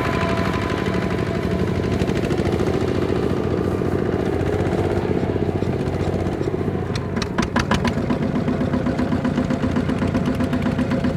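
Small Kubota ZT155 tractor's engine running under load, its pitch rising and falling as it works.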